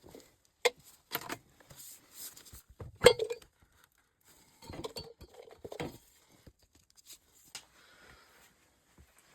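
Hard objects being handled and set down, a series of separate clinks and knocks with a short clatter in between, the loudest knock about three seconds in.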